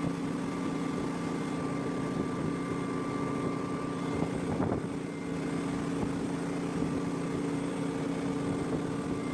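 A steady machine hum that holds one pitch throughout, with a few faint clicks.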